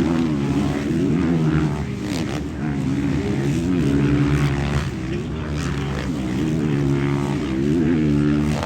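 Motocross bike engines on the track, revving up and down with a steady drone as the bikes race.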